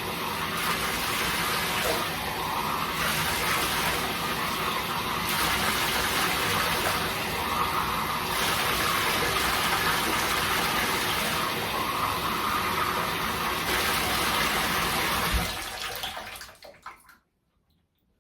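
Water running steadily from the bathtub faucet into the tub to test whether the freshly cleared drain now takes the water. About fifteen seconds in there is a single knock and the flow is shut off, trailing away to quiet.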